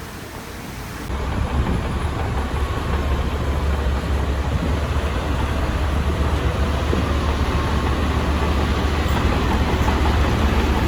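Heavy diesel earthmoving machinery running with a steady deep drone and clatter, coming in abruptly about a second in.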